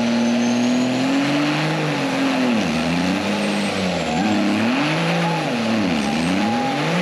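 A truck engine held at high revs, then revved up and down over and over, about once a second.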